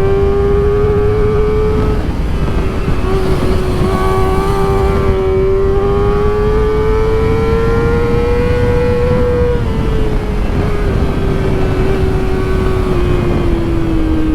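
Kawasaki Ninja ZX-4RR's inline-four engine running at high revs under way, with steady wind noise. The engine note climbs gradually over several seconds, then eases down through the last few seconds as the throttle comes off.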